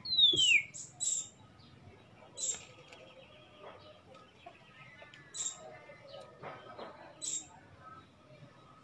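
A small bird calling: one loud downward-sliding whistle at the start, then short high chirps every second or two.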